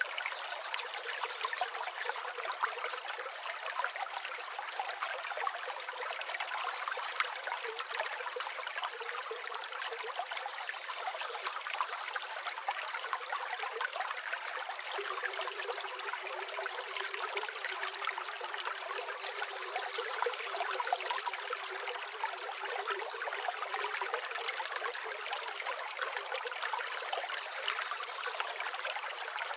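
A flowing river: steady rushing and trickling water.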